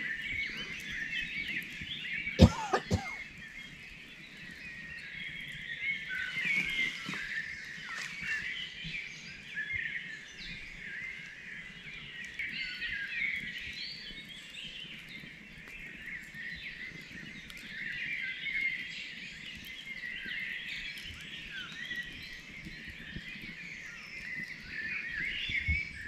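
Dawn chorus of many songbirds singing in a forest, a continuous mix of overlapping chirps and trills. Two sharp knocks come about two and a half seconds in.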